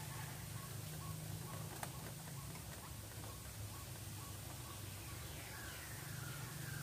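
Short bird calls repeated in a series, each sliding down in pitch, starting about five seconds in, over a steady low hum and faint regular ticks.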